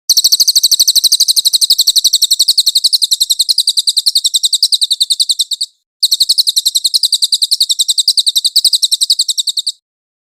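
Songbird master recording: a small bird's rapid, very high trill of evenly repeated notes in two long bouts with a short break between them.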